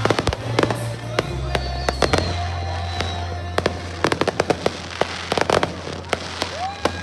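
Fireworks going off in rapid succession: many sharp pops and bangs, several a second, over music with steady bass notes.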